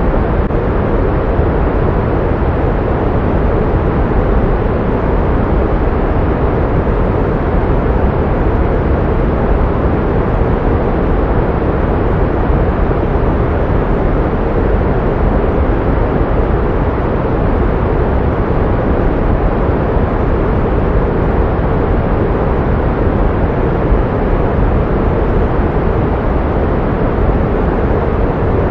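Steady pink noise: an even, unchanging hiss weighted toward the low end, used to mask tinnitus.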